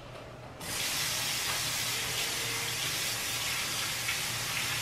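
Water running steadily from a kitchen tap, an even hiss that starts about half a second in and cuts off suddenly near the end.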